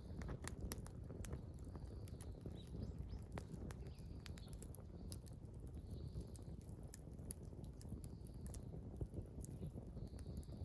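Small campfire crackling, with many irregular sharp pops and snaps, and birds chirping faintly in the background every second or two.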